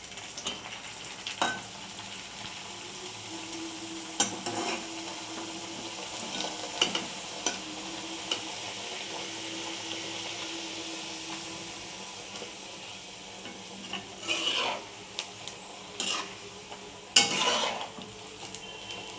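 Luchi frying in hot oil: a steady sizzle, with a metal spatula or slotted spoon knocking and scraping against the pan a dozen or so times, loudest near the end.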